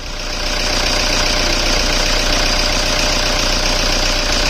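Toyota 1KD four-cylinder turbodiesel engine, freshly overhauled, running at a steady idle. The sound builds over the first half second, then holds steady.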